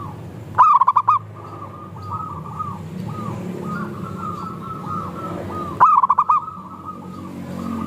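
Zebra doves (perkutut) cooing: a chorus of many birds with overlapping soft notes, and a loud close bird giving its quick pulsed call twice, about half a second in and again about six seconds in.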